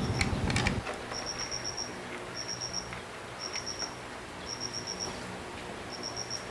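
A motorbike engine running with a rapid, even beat shuts off about a second in. After it, a cricket chirps in short trains of four or five high pulses, about one train a second.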